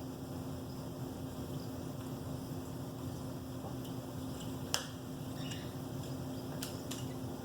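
A steady low hum throughout, with a few sharp clicks, one just under five seconds in and two close together near seven seconds.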